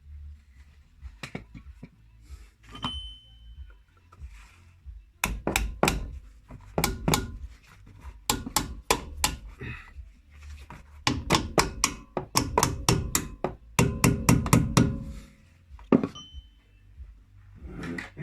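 Hammer blows in several quick bursts of a few strikes a second, with short pauses between.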